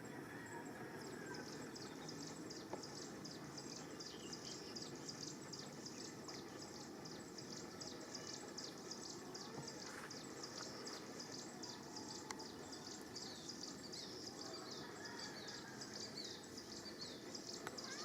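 Outdoor ambience: a fast, high-pitched chirping repeated several times a second over a steady background hiss, thinning out near the end.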